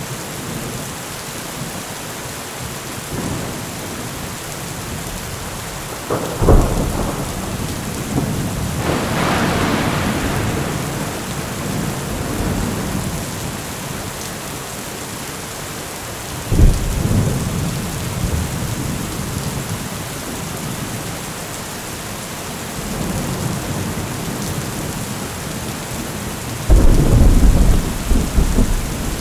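Heavy rain falling steadily, with thunder crashing over it several times. There is a sharp clap about a quarter of the way in, followed soon after by a longer rolling rumble. Another clap comes a little past the middle, and a heavy rumbling crash near the end.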